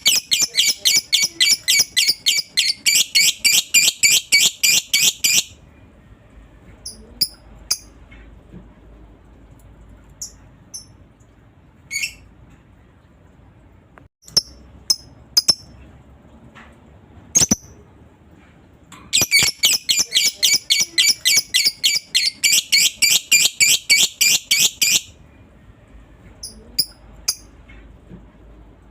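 Lovebird giving its long, rapid chattering trill, the "ngekek": a fast run of high chirps lasting about five seconds, then a few single chirps, then a second long run starting about two-thirds of the way through.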